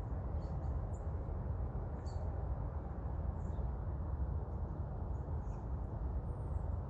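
Small birds chirping faintly with short, high, scattered calls over a steady low background rumble.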